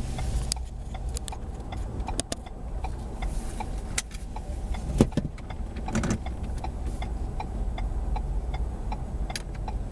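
Low steady rumble of a car heard from inside the cabin, with scattered light clicks and ticks. The sharpest click comes about five seconds in.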